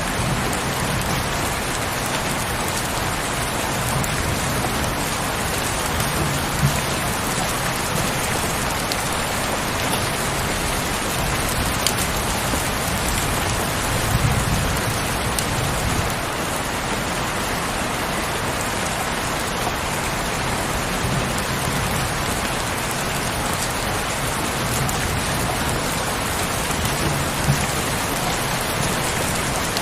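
Steady heavy rain, a dense even patter throughout, with a few brief low swells.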